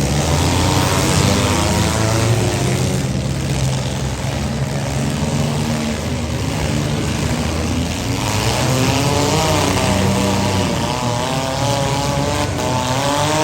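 Compact demolition-derby cars' engines running together, loud and continuous. From about eight seconds in, engine pitch rises and falls as they rev.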